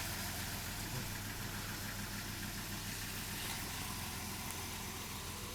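A steady low mechanical hum, like an engine or motor running, with faint background hiss.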